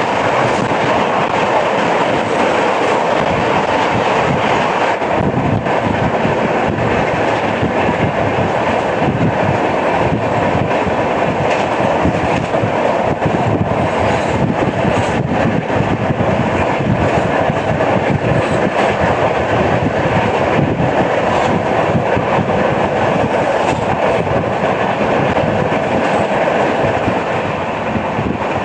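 Passenger express train running at speed: a steady, loud rumble of wheels on rail, with a dense clatter of knocks from a flat wheel.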